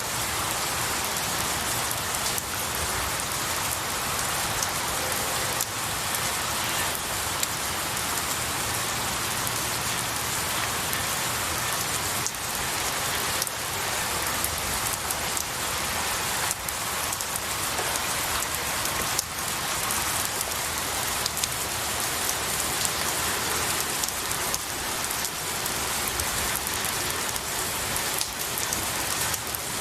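Steady rain falling on pine needles and a tree, an even hiss with many small drops pattering.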